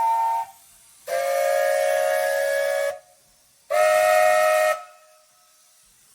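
Steam whistle blowing in separate blasts, several notes at once like a chord. A blast ends about half a second in, a longer one of about two seconds starts about a second in, and a shorter one of about a second follows near four seconds.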